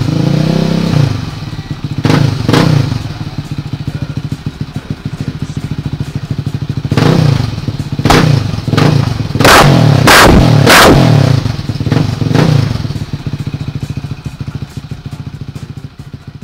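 Suzuki LTR 450 quad's single-cylinder four-stroke engine through an Akrapovic Evolution full exhaust, idling with a pulsing beat between quick throttle blips. The blips come twice early on, then in a run of about six in the middle, the fastest three close together around ten seconds in.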